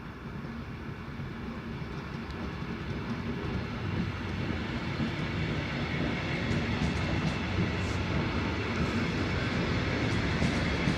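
Train running into the station, its rumble growing steadily louder, with light clicks from wheels on the rails in the second half.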